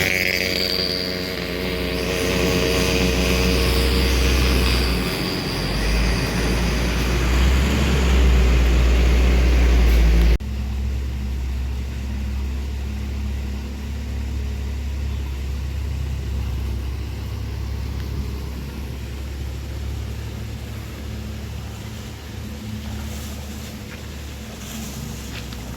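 Vehicle engines running close by with a loud, low rumble. About ten seconds in the sound cuts off abruptly to a quieter, steady engine hum.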